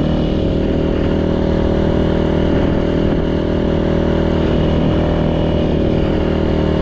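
Yamaha YZ450 dirt bike's freshly rebuilt single-cylinder four-stroke engine running steadily, without any clear revving.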